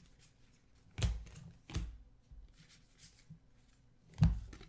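Trading cards being handled on a table: three sharp taps, about a second in, near two seconds and again after four seconds, with light card-on-card rustling and small ticks between.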